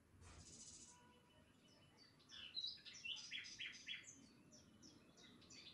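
Faint bird chirping: a quick run of short, high chirps starting about two seconds in, over near silence.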